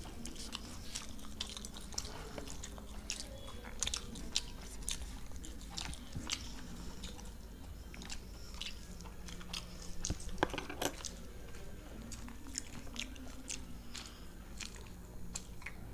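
Close-miked mouth sounds of people eating with their hands: chewing soft fried luchi bread and curry, with many small wet clicks and lip smacks, and one louder click about ten seconds in.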